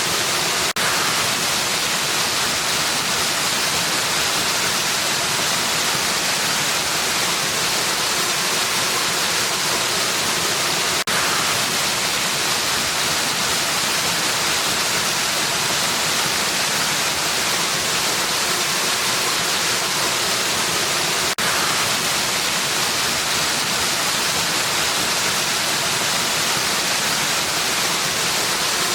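Waterfall, a steady rushing of falling water with its hiss weighted toward the high end. Three times, about ten seconds apart, the sound dips for a split second.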